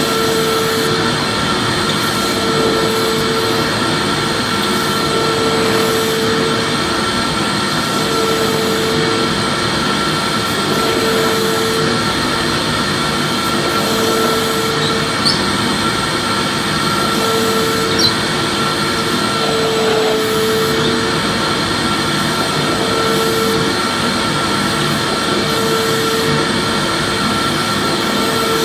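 Vacuum cleaner running steadily as white noise: a dense rush of air with a constant whine over it, and a lower hum that swells and fades about every two to three seconds. Two faint ticks occur around the middle.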